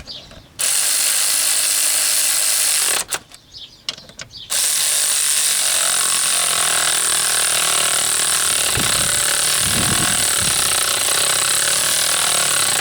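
A power tool running the long hub mounting bolts in. It runs steadily for about two and a half seconds, stops briefly, then runs continuously for about eight seconds.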